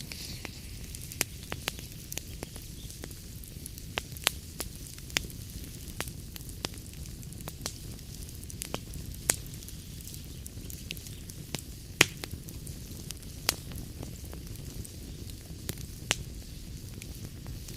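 Wood fire in a fireplace burning with a steady low rumble and hiss, and sharp crackles and pops at irregular intervals, the loudest pop about twelve seconds in.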